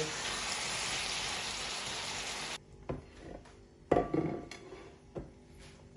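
Ground meat and vegetables sizzling in a frying pan, cut off abruptly a couple of seconds in. Then a few knocks and clinks of cookware as a glass baking dish is handled, the loudest about four seconds in with a short ring.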